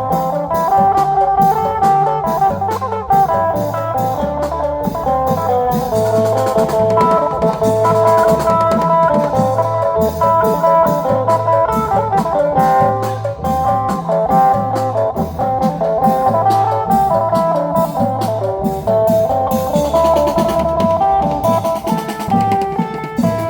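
Band music with a steady, regular drum beat under a sustained melody line.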